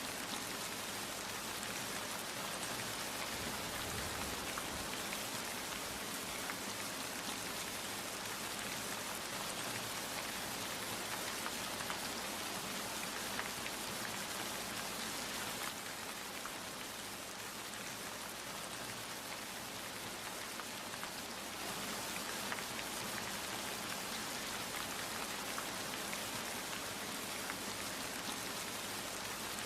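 Steady rain falling, an even hiss of many drops with scattered single drop ticks, easing slightly for a few seconds just past the middle.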